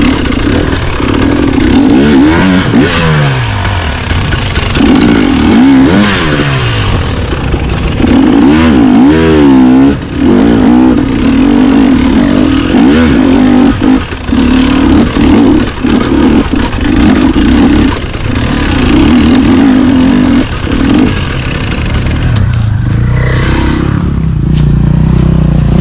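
Dirt bike engine running loud under way, its pitch rising and falling repeatedly as the throttle opens and closes and the gears change, settling to a lower note near the end.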